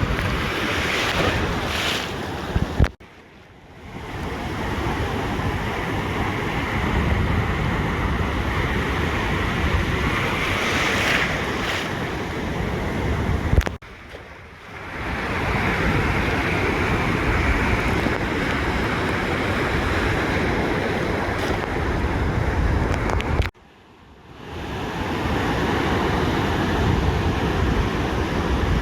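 Ocean surf washing on a beach, with wind rumbling on the microphone. The sound drops out suddenly three times, about every ten seconds, and fades back in each time.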